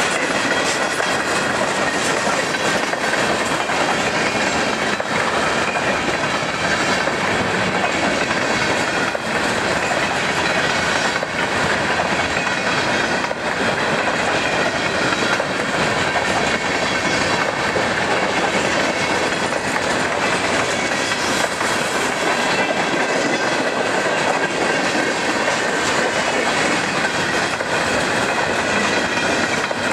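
Freight train's tank cars and covered hoppers rolling past close by: a steady noise of steel wheels on rail, with wheels clicking over rail joints every second or two.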